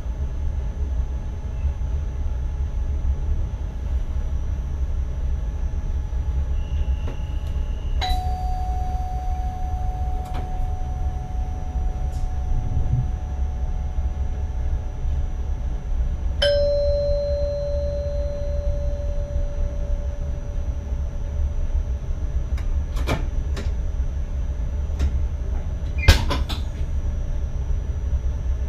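Inside the cab of an NS ICM train running, with a steady low rumble. A chime rings twice: a higher ding about 8 s in and a lower one about 8 s later, each fading away slowly. A few sharp clicks come near the end, the loudest about 26 s in.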